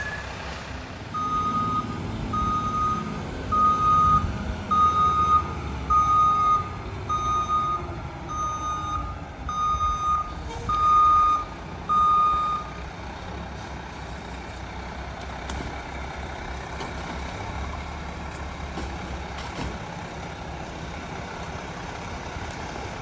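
Backup alarm on a garbage truck, an International HV with a Heil PowerTrak rear loader, beeping about once a second while it reverses. The beeps stop about halfway through, leaving the diesel engine running.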